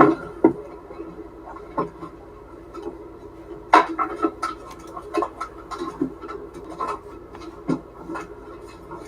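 Irregular clicks, knocks and rubbing of household items being handled and moved about, with the sharpest knock about four seconds in.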